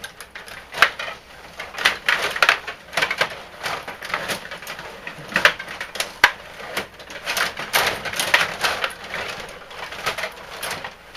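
Ice hockey play: skate blades scraping and cutting the ice, with sticks and puck clacking, in a run of irregular sharp scrapes and knocks.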